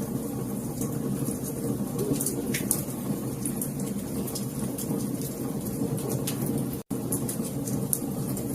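Wood fire crackling, with irregular sharp pops and snaps over a steady low rumble of burning flames. The sound cuts out for an instant about seven seconds in.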